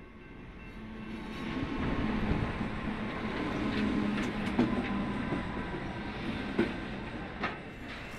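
Pacific National NR-class diesel-electric locomotives approaching and passing close by, the engine noise swelling over the first two seconds into a steady low drone with wheel rumble. The wagons following behind roll past with a few sharp wheel clicks on the rails.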